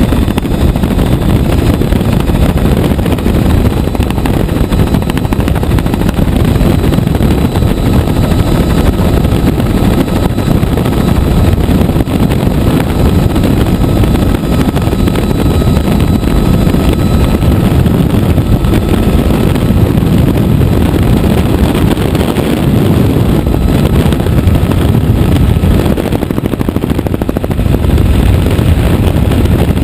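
Helicopter in flight: a steady, loud rumble of rotor and engine noise, with a faint whine held above it.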